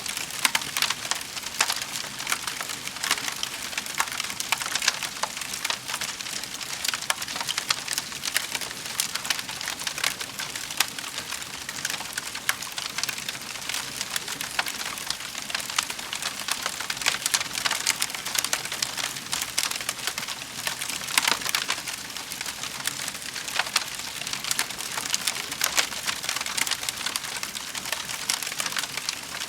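Wood fire crackling in a fireplace: a steady, dense stream of small pops and snaps over a soft hiss.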